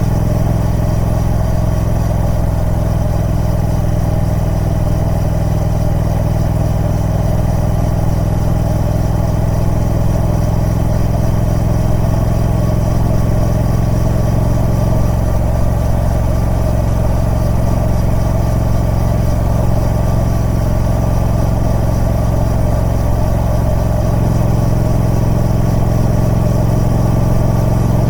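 Triumph Speed Twin 1200's parallel-twin engine with stock exhaust running at a steady speed, with slight changes in pitch about halfway through and again near the end.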